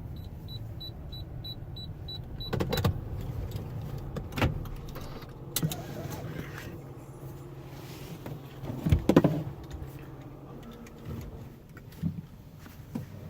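Idling car heard from inside the cabin: a steady low engine hum, a quick high beeping for the first couple of seconds, then several separate knocks and thumps, the loudest about nine seconds in.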